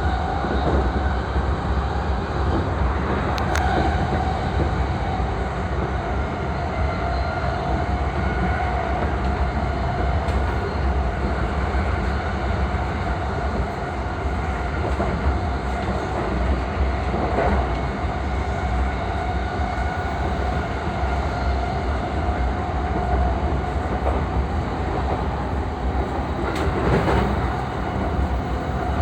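JR East E233-3000 series electric train running at speed, heard on board: a steady rumble of wheels on rail with a held tone above it, and a few sharp clicks as the wheels cross rail joints.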